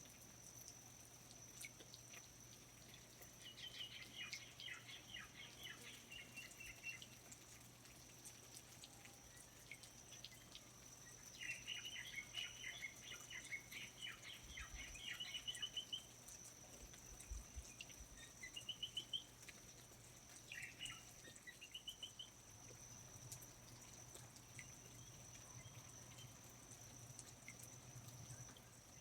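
Rainforest ambience: a songbird sings quick trilling, chirping phrases several times, with longer bursts about 3 to 7 seconds in and again about 11 to 16 seconds in. Under it runs a steady high-pitched drone, with faint scattered drips and ticks.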